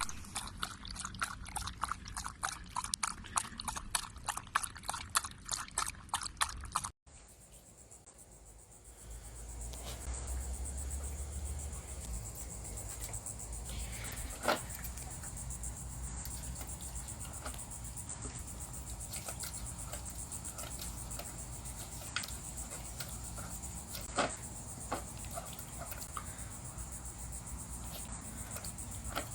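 Dachshund eating: a fast, even run of wet clicks and smacks, several a second, for about seven seconds. Then it cuts off, giving way to a steady hiss with a few scattered clicks.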